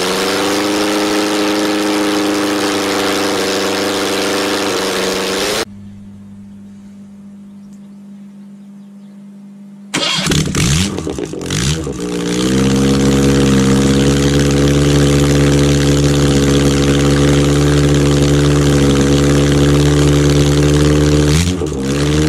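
Ford OHC 'Pinto' four-cylinder engine running on a stand, settling into a steady idle after starting; the sound cuts off suddenly about six seconds in, leaving a quieter steady hum. About ten seconds in it is started again, stumbles as it catches, runs steadily and louder, then winds down and stops near the end.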